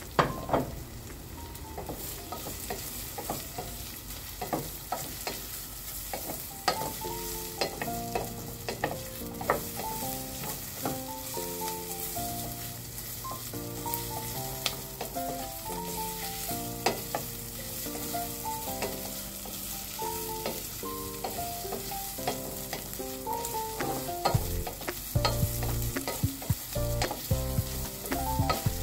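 Sliced onions, garlic and ginger sizzling as they sauté in oil in a stainless steel saucepan. A wooden spatula stirs them, with frequent knocks and scrapes against the pan. Light background music plays underneath.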